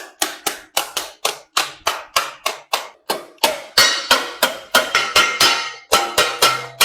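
Hand hammer striking metal stock on an anvil in a steady rhythm, about three to four ringing blows a second.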